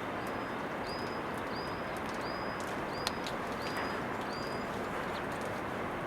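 A small bird calling repeatedly: seven short, high notes, each sliding up and then held, evenly spaced about two-thirds of a second apart and stopping about two-thirds of the way through, over a steady background hiss.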